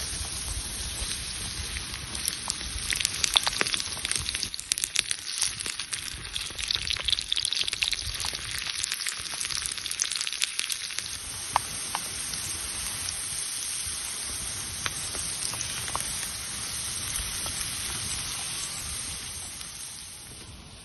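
Food frying in a pan over a campfire: a steady sizzle with a dense spatter of pops over the first half, settling into a smoother sizzle with occasional pops.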